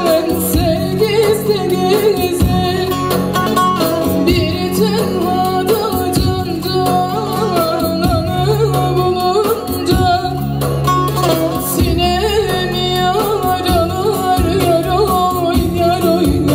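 Live Turkish folk music: a woman singing an ornamented, wavering melody over an amplified band with a steady drum beat.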